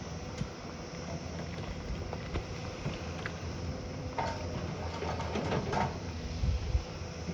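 A heavy construction machine's engine running with a low, steady hum, with clanks and knocks about four to six seconds in and a couple of heavy thumps near the end.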